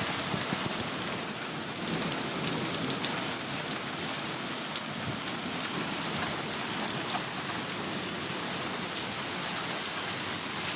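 Heavy rain falling steadily during a thunderstorm, a continuous hiss of rain with scattered sharper drop ticks.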